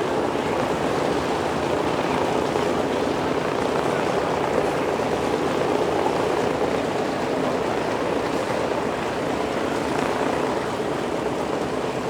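Steady propeller-aircraft engine noise that swells slightly a few seconds in.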